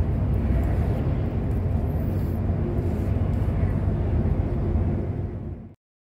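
Steady low drone of a truck's engine and road noise heard inside the cab while driving, cutting off abruptly to silence near the end.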